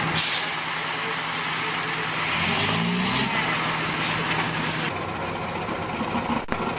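Heavy truck engine running with a brief rev about two and a half seconds in, along with several short hisses.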